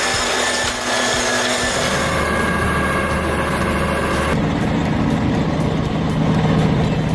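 Heavy machinery engine running steadily. About four seconds in it changes abruptly to a lower, steady diesel engine sound, the timber truck's engine under load.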